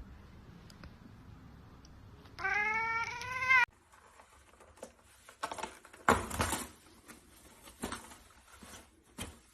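A domestic cat gives one long, loud meow of just over a second, a couple of seconds in. Scattered knocks and rustling follow later.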